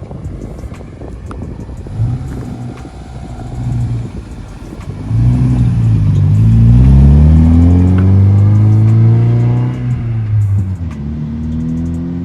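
Toyota BEAMS 3S-GE four-cylinder engine swapped into a 1974 Datsun 620 pickup accelerating hard, its pitch climbing steadily from about five seconds in and loudest through the middle. Near ten seconds the revs drop away, as at a shift or lift-off, and the engine settles to a steadier note.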